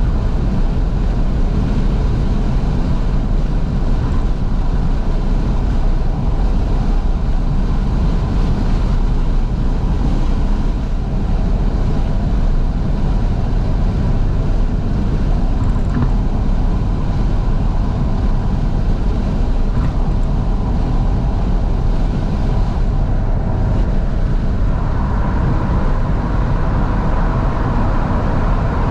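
Steady road, engine and wind noise inside a 2012 Fiat 500S driving with its windows fully open, heavy at the low end. A somewhat higher hum grows in near the end.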